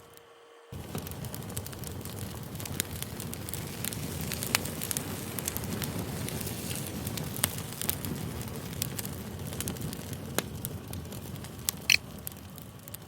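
Campfire burning: a steady low rush of flames with scattered crackles and pops, one sharper pop near the end. The sound cuts in about a second in and fades out again at the very end.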